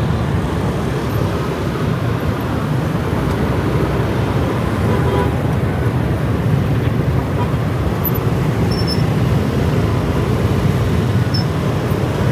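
Motorcycle riding through city traffic: the bike's engine and road noise run steadily, mixed with the hum of surrounding motorbikes and traffic.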